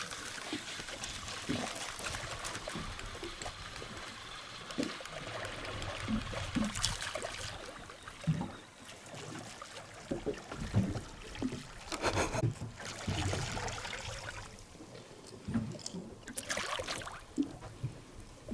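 Water lapping and splashing against the hull of a boat lying on the water, with irregular small slaps and two louder splashes, about twelve seconds in and again near the end.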